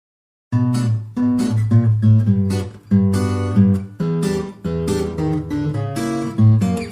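Background music: acoustic guitar strumming chords in a steady rhythm, starting about half a second in.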